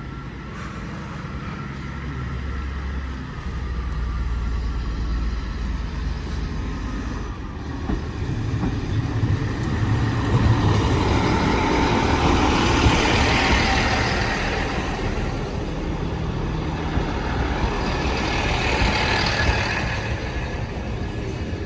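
Class 158 diesel multiple unit passing over the level crossing: a low engine drone builds into loud wheel-and-rail noise, loudest about halfway through, with a second swell near the end.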